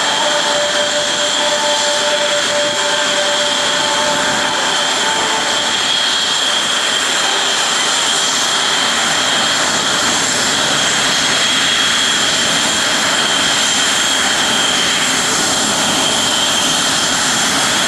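Blue Angels F/A-18 Hornet jet engines running at taxi power: a steady, loud rush with a high whine that holds level throughout.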